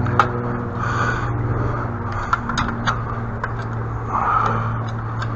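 A steady engine-like hum with a low fixed pitch runs throughout, with scattered sharp clicks and light scrapes over it.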